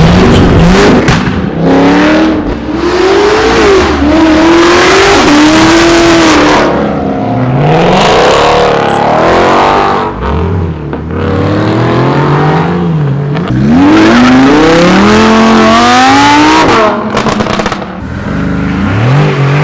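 Car engines revving hard through accelerating pulls, the pitch climbing and dropping back again several times, over loud exhaust noise.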